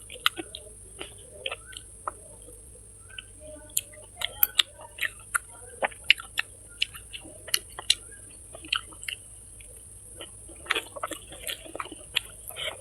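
Close-miked eating: irregular wet clicks and smacks of chewing and biting, clustering in quick runs, over a steady high hiss.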